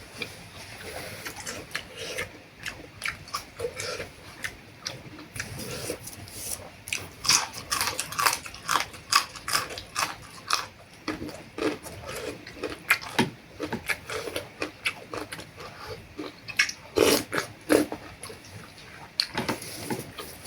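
A person eating noodle soup close to the microphone, slurping and chewing in a run of irregular wet smacks and clicks. The smacks are busiest about a third of the way in and again near the end.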